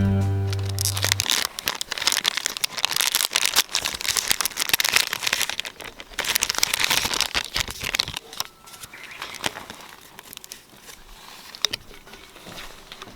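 Dense crinkling and crackling, as of crumply material being handled, easing off about eight seconds in to a few lighter crackles.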